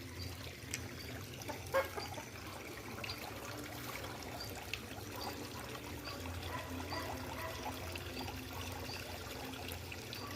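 Water trickling and dribbling, with a faint high chirp repeating every half second or so and a single sharp click near the start.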